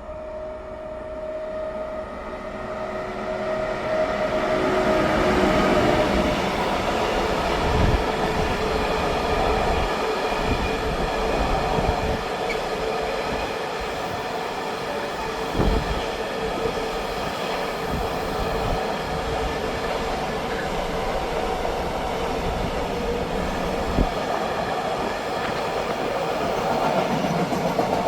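Train passing close by: the rumble builds over the first few seconds with a steady whine, then holds as the cars go past, with scattered sharp wheel knocks over rail joints.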